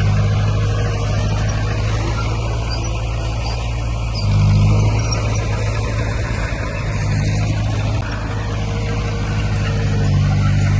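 Diesel engine of heavy earthmoving equipment running steadily under load, swelling louder for a moment about four seconds in.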